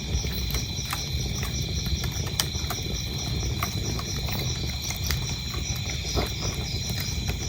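Wood fire crackling, with scattered sharp pops and snaps over a low rumble of flames, while crickets chirp in a steady, evenly spaced high-pitched rhythm.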